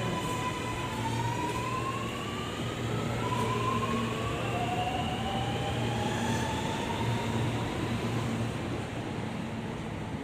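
Sydney Metro train pulling away, its traction motors giving an electric whine that rises in pitch in several overlapping steps, over a steady low hum.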